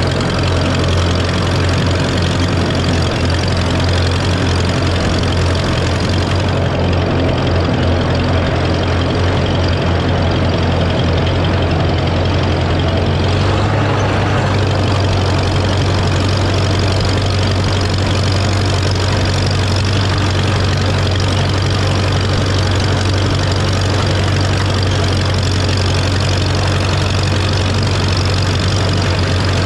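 Farmall A tractor's four-cylinder engine running steadily at a light throttle while driving a King Kutter finish mower through the PTO. The engine note shifts slightly about 14 seconds in, then holds steady.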